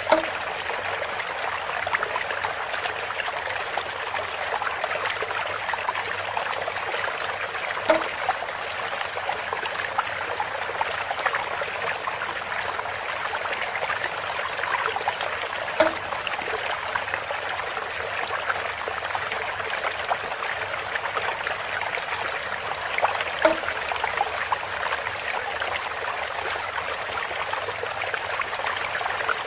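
Water running and trickling through a bamboo spout in a steady flow, with a short hollow knock about every eight seconds.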